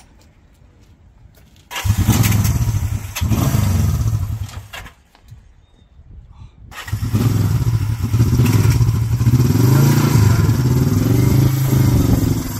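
1973 Honda CB350's parallel-twin engine starting about two seconds in, running a couple of seconds and dying away, then starting again and running with the revs rising and falling.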